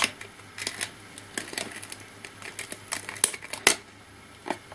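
Sticky adhesive being peeled and picked off a laptop's internal parts by hand: irregular small clicks and crackles, with a few sharper ticks after about three seconds.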